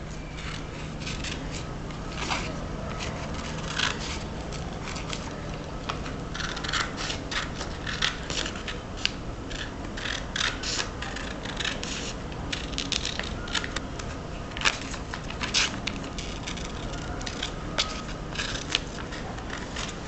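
Scissors cutting a sheet of paper along a folded crease, with many short, irregular snips.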